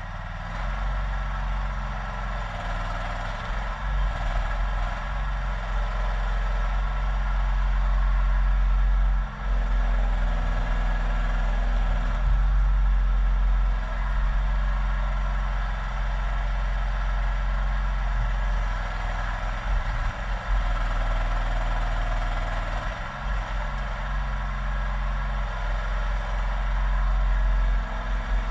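Mini excavator engine running steadily throughout, its low note stepping up and down several times as the hydraulics take load while digging a trench.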